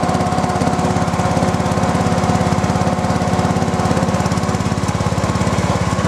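1986 John Deere 165 hydrostatic lawn tractor's engine running steadily at constant speed, with a fast even pulse.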